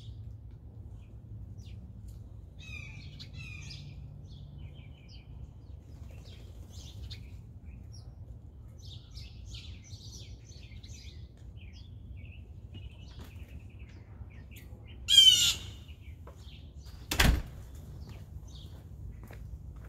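Birds chirping in scattered short bursts, with one loud blue jay call about three quarters of the way through. A single sharp knock follows about two seconds later, over a steady low background hum.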